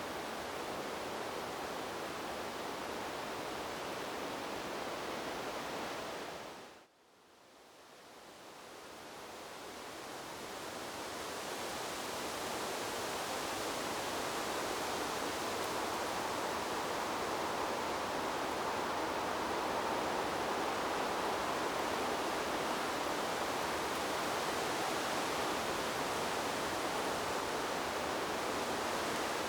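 Steady wind-like rushing noise, sold as wind in the trees, with no distinct gusts or leaf detail. About seven seconds in it fades quickly almost to silence, then swells back over the next several seconds to a steady level, a little brighter than before.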